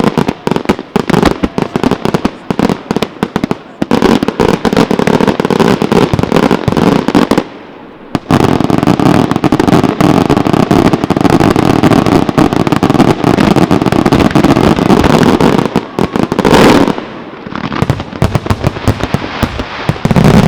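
Professional fireworks display: rapid strings of firecracker bangs and crackles build into a dense, unbroken barrage of reports, with a brief lull about eight seconds in. A very loud burst comes near the end of the barrage, followed by scattered sharp cracks and one more loud bang at the very end.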